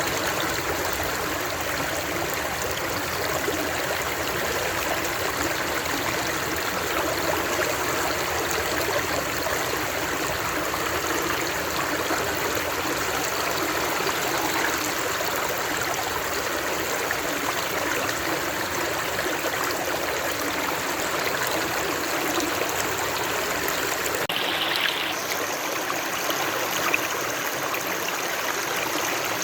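Steady sound of running water from a flowing stream. Near the end its texture shifts slightly and loses some of its low rumble.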